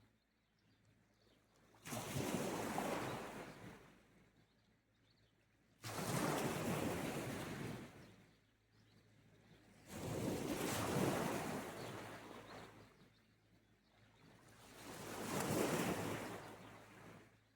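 Sea waves washing onto the shore. Four separate surges come about four seconds apart, each lasting two to three seconds and then ebbing away, with quiet between them.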